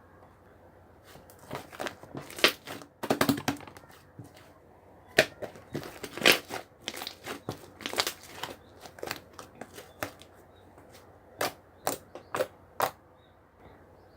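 Irregular crackling and crinkling handling noises: many short sharp clicks and crunches, with a dense cluster about three seconds in and scattered ones after.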